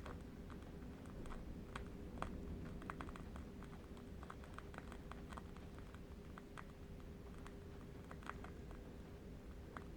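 Faint, irregular crackling of a burning candle wick, many small clicks at uneven intervals, over a low, steady rumble of distant wind.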